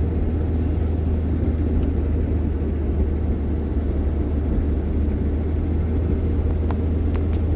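Steady low rumble of a car's engine and tyres heard inside the cabin while driving on a winter road, with a few faint clicks near the end.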